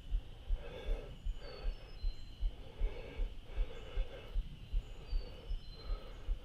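A person breathing hard close to the microphone, a breath about every second, over a run of soft low thuds like footsteps while walking.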